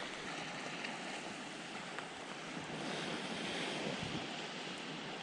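Surf washing onto a beach, a steady hiss that swells slightly about three seconds in.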